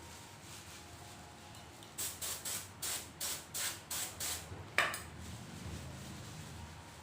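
Spray paint sprayed onto a wheel rim in about eight short hissing bursts over two and a half seconds, followed by a single sharp click.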